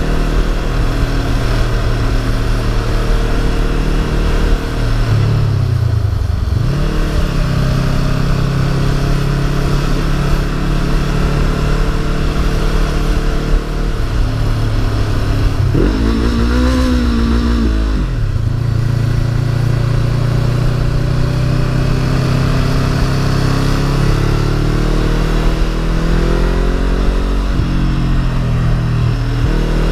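Honda CB500F parallel-twin engine running while riding, with the engine note dropping and climbing again about five to seven seconds in as the revs change, and a brief wavering higher engine note about sixteen to eighteen seconds in.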